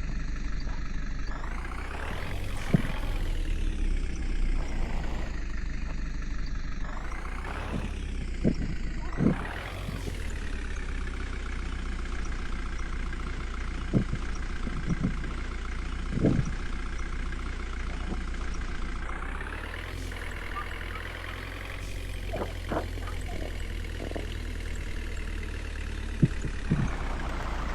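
Water-tanker truck's engine running, its pitch rising and falling as it speeds up three times, with a number of short knocks and clunks from the vehicle.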